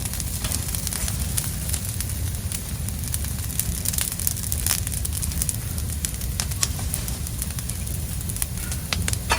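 Bonfire of dry fallen leaves and branches burning, with many irregular sharp crackles and pops over a steady low rumble.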